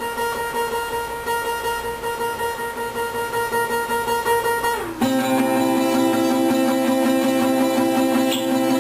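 Guitar being played: a high note held with a fast pulsing strum, switching about five seconds in to a lower, fuller chord that rings on steadily.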